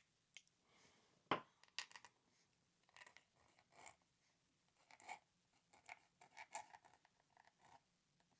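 Metal nib of a dip calligraphy pen scratching faintly on hot-pressed watercolour paper in short, uneven strokes, with one sharper click about a second in.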